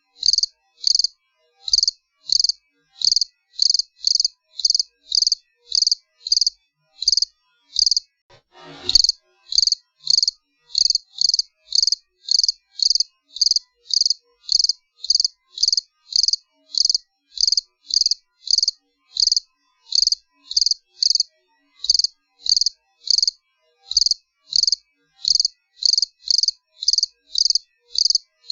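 A cricket chirping steadily: short, high-pitched chirps repeated about twice a second with clean silence between them. About nine seconds in a brief soft rustling noise sounds once.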